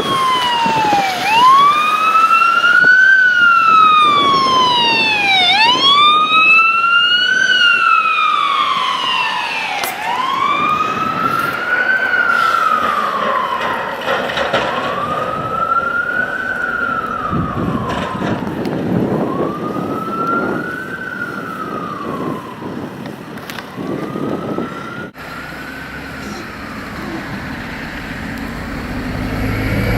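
An emergency vehicle's siren wailing, its pitch rising and falling in slow sweeps about every four seconds and growing fainter over the second half.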